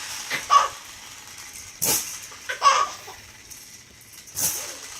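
A baby's rattle shaken in short bursts, once about two seconds in and again near the end, with a baby laughing in short giggles after each shake.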